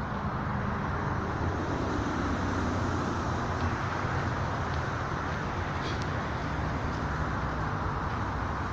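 Steady, low outdoor background rumble with no distinct events, with a faint click about six seconds in.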